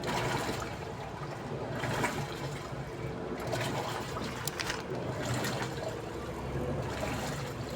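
Daewoo washing machine running with water swishing in the drum in surges every second or two over a low motor hum.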